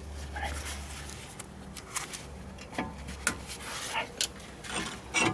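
Scattered light metallic clicks and taps of tools and brake parts being handled, a few of them ringing briefly, over a low hum that fades out about three seconds in.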